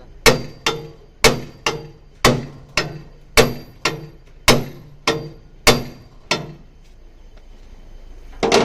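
A heavy metal tool hammering on the truck's bent steel, about a dozen ringing metal-on-metal strikes in quick pairs, straightening accident damage. The blows stop after about six seconds and one more strike comes near the end.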